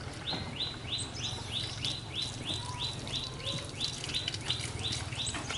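A bird calling in a fast, even series of short rising chirps, about three a second, over a steady low hum.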